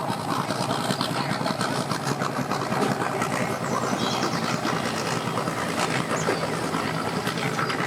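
Engines running steadily with a low hum, amid dense crackling outdoor noise.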